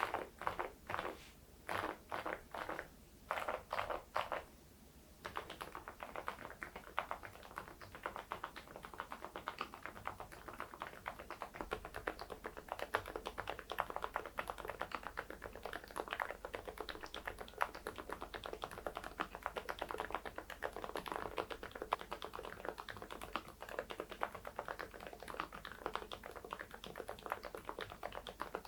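Typing on an AULA F99MAX mechanical keyboard fitted with silent linear switches and baseball-themed keycaps. The keys give soft, muted clicks: a few separate short runs of keystrokes, then steady fast typing from about five seconds in.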